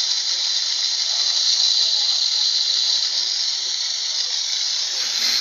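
Water fountain running, its falling spray making a steady hiss.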